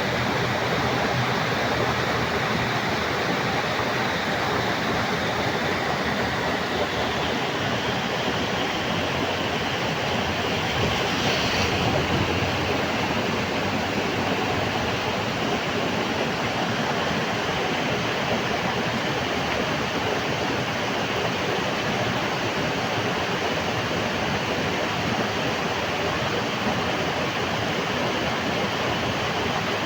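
Heavy rain falling steadily, a dense, even hiss with a slight swell about eleven seconds in.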